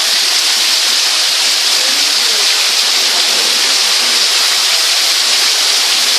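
Hailstorm downpour: heavy rain and hail pouring down in a dense, steady, loud hiss.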